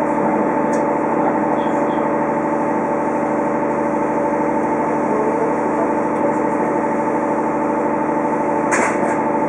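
Steady hum inside a JR Kyushu 817 series electric train, several fixed tones holding level, with one sharp click near the end.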